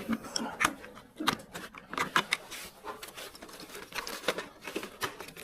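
Irregular clicks, taps and light knocks of hard plastic parts being handled, several a second.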